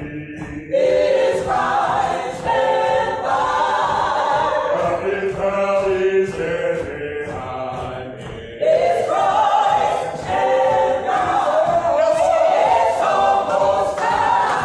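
Gospel choir singing a cappella, several voices holding and moving between sustained notes. The singing comes in louder just under a second in, eases off, and swells again near nine seconds in.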